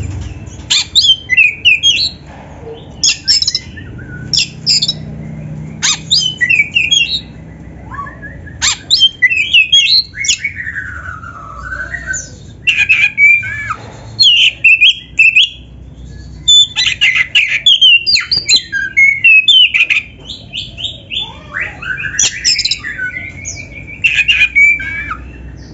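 Oriental magpie-robin (kacer, black-breasted form) singing a loud, varied song of quick chirps, harsh squawky notes and whistled glides in rapid bursts, its phrases mixed with imitated canary song.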